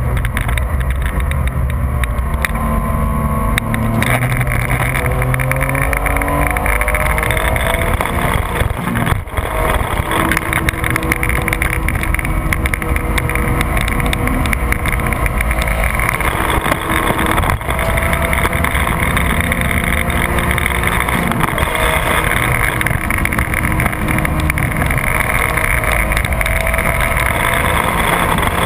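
Porsche 996 GT3's 3.6-litre flat-six engine at full throttle on track, heard from inside the cabin, its pitch climbing again and again through the gears and dropping back at each shift and corner, over steady wind and road noise.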